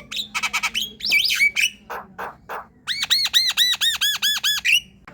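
Javan myna (jalak kebo) singing: harsh clicking chatter, then whistled glides. About three seconds in comes a fast run of around nine repeated arched whistles, ending in a rough note.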